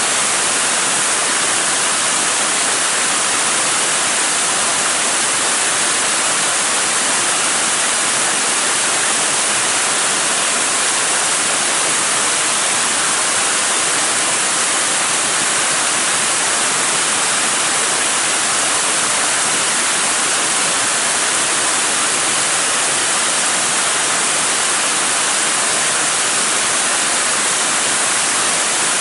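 Waterfall: a steady, loud rush of falling water, mostly high hiss, with no break or change.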